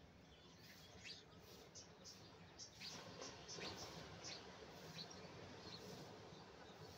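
Faint small-bird chirping: short, high notes that drop in pitch, several a second from about a second in, over a low steady outdoor background.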